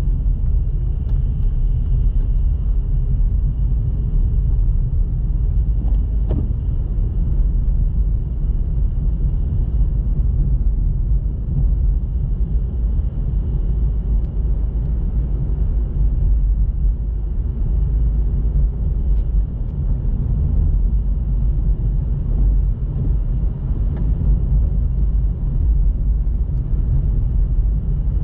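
Steady low rumble of a car driving along the road, engine and tyre noise without letup.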